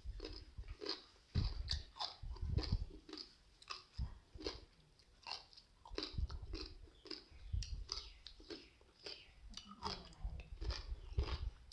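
A person chewing and crunching crisp raw vegetables with spicy seafood papaya salad, a wet crunch roughly every half second.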